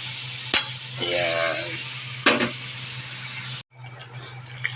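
Chicken sizzling as it fries in a pan, with a sharp utensil clink about half a second in and another knock a little after two seconds. The sizzling cuts off abruptly near the end.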